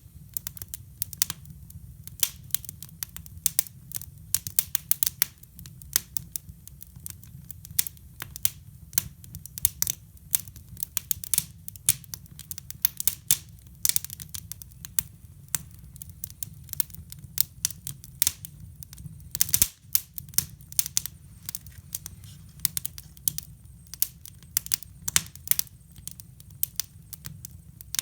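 Fire crackling and popping in a hybrid fireplace: irregular sharp snaps, several a second, over a steady low hum.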